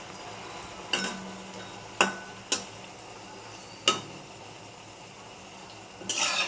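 A metal utensil clinking against a metal cooking pot: four separate ringing clinks, then a short clatter near the end.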